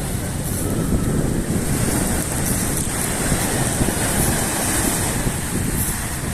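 Black Sea surf washing steadily onto the shore, with wind buffeting the microphone in a constant low rumble.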